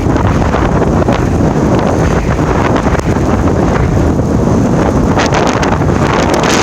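Strong blizzard wind buffeting the phone's microphone: a loud, steady rush heaviest in the low end, with a few faint ticks scattered through it.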